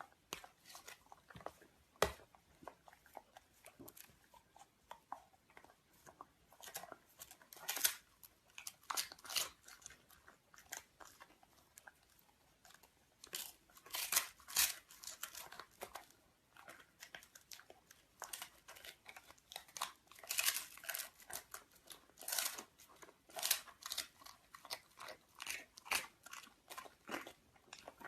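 A puppy chewing and crunching on something hard, in irregular clusters of crisp bites with a short pause about halfway through.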